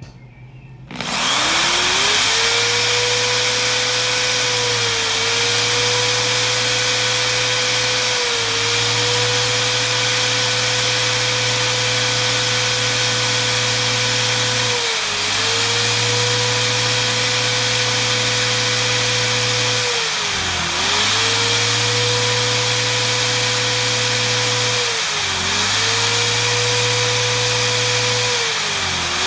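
Electric drill boring holes into a wooden door jamb. The motor starts about a second in and runs steadily, and its pitch sags briefly about six times as the bit loads up in the wood, then recovers.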